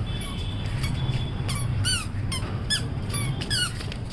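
A toddler's squeaky sandals squeaking step after step: a run of short squeaks, about two a second, each a quick rise and fall in pitch.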